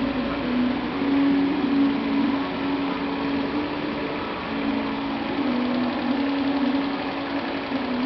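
125 cc moped engine idling steadily, running with HHO (oxyhydrogen) gas fed into its intake air; its pitch wavers slightly.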